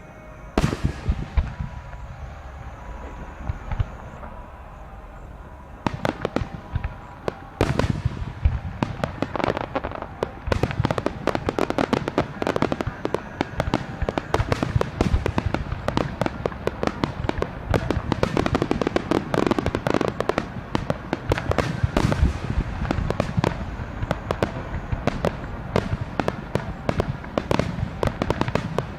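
Aerial fireworks bursting: a single loud bang about half a second in and a few scattered bangs, then from about eight seconds a dense, rapid barrage of explosions that carries on.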